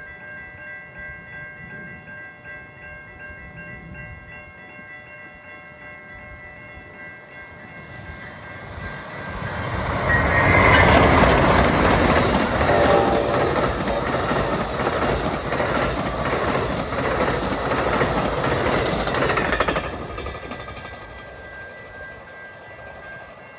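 Amtrak passenger train roaring past at speed: its noise swells about nine seconds in, stays loud for about ten seconds as the cars rush by, then drops off quickly. Steady high ringing tones sound throughout.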